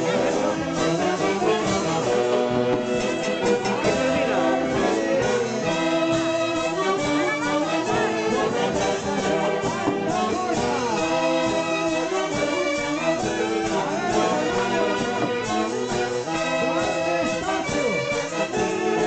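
Andean orquesta típica playing a festival dance tune, with wind instruments carrying the melody over a steady accompaniment.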